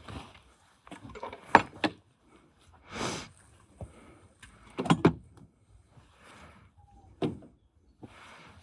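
A series of separate knocks and clatters of hard objects being handled, the sharpest about a second and a half in and again about five seconds in, with a short rushing noise between them.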